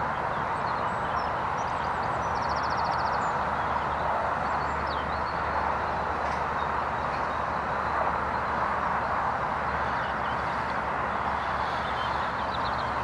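Floodwater pouring over a weir in full spate: a steady, even rush of water. The speaker calls the weir raging.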